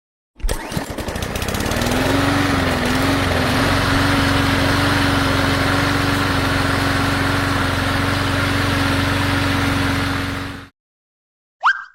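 Engine sound effect: a motor starts with a quick rattle, its pitch rises and wavers, then it runs steadily before cutting off abruptly near the end.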